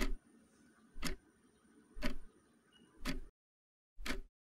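Countdown-timer sound effect of a clock ticking, one tick a second, five ticks in all.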